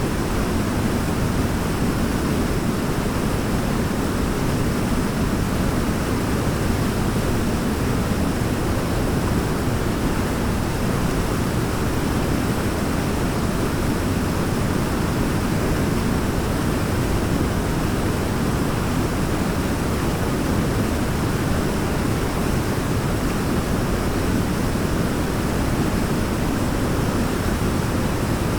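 Waterfall: a deep, steady rush of falling water, unbroken throughout.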